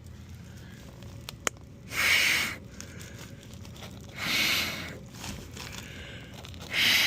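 Three short hissing bursts of pressurized air forced through an air conditioner's condensate drain line, each about half a second to a second long, with a sharp click just before the first. The air passes without restriction: the clog has cleared.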